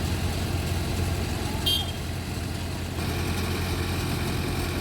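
Large engine idling with a steady low hum. A short high-pitched beep sounds once, a little past a third of the way in.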